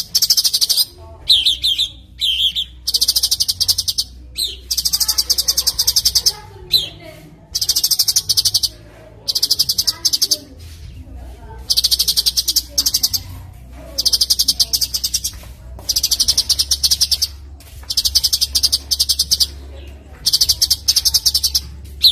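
Songbird singing for a masteran recording: a run of loud, high, rapid buzzy trills about a second each, repeated with short pauses, with a few short whistled notes near the start.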